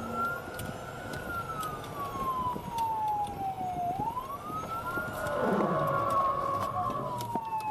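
Police siren in a slow wail, rising quickly then falling gradually, twice through, with a rush of vehicle noise about five seconds in.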